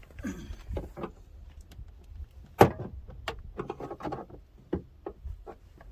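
Plastic retaining clips of a 2011 GMC Sierra's interior door trim panel popping loose as it is pried off: a scatter of sharp clicks and snaps, the loudest about two and a half seconds in.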